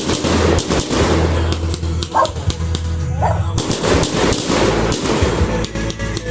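Fireworks popping and crackling in rapid, dense volleys over background music.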